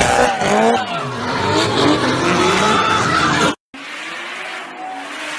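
Drift car engines revving hard with tyres squealing and skidding as they slide. About three and a half seconds in, the sound cuts off abruptly to a brief silence and then comes back quieter with a slowly rising engine note.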